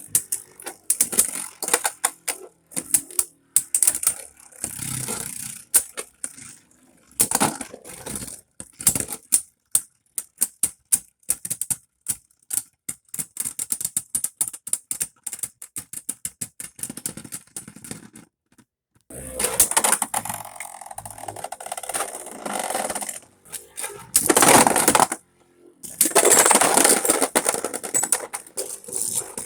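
Beyblade spinning tops battling in a plastic stadium: rapid, irregular clacks of the tops striking each other and the stadium walls, then, after a short pause, long stretches of continuous rattling and scraping as they spin and grind together.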